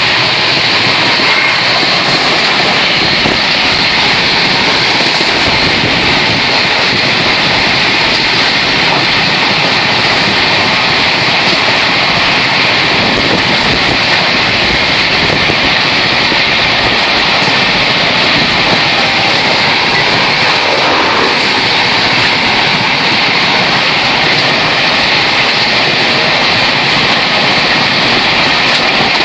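A passenger train running at speed, heard from an open coach door: a loud, steady rush of air and track noise.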